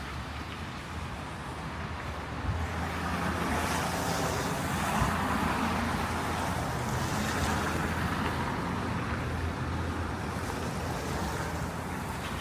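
Street traffic on a snowy city road: a steady low engine hum, with a vehicle's tyre noise swelling about three seconds in and fading again after about nine seconds.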